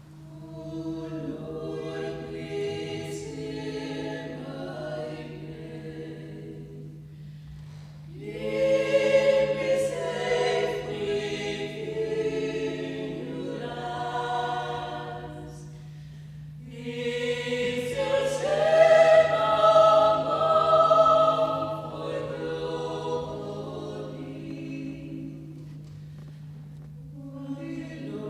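A choir of voices singing unaccompanied in long held phrases that swell and fall back, loudest twice, with a steady low hum underneath.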